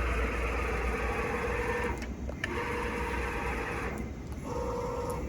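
Fryer CNC bed mill's axis drive motors and ball screws whining as the table traverses under the Centroid control, in separate moves: one of about two seconds, a pause, another of about a second and a half, then a shorter one at a slightly higher pitch near the end. A steady low machine hum runs underneath.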